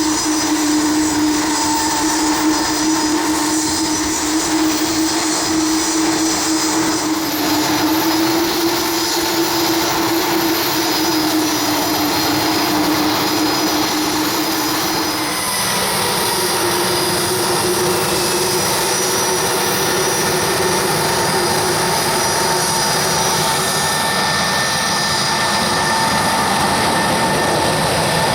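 Jet aircraft engines running with a steady loud roar and whine; the whine shifts pitch suddenly twice, about a quarter and about halfway in.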